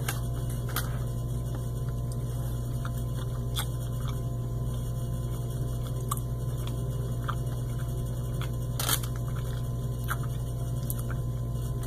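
A person chewing a dense chocolate-coated peanut butter protein bar with crisped-rice pieces: scattered soft crunches, one louder about nine seconds in, over a steady low hum.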